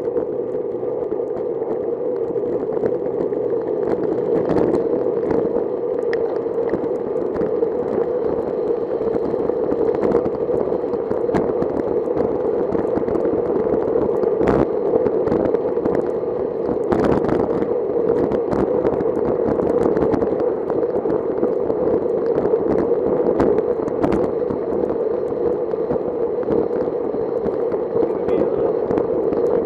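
Steady rushing noise from riding a bicycle on wet roads in the rain, with scattered sharp clicks and knocks.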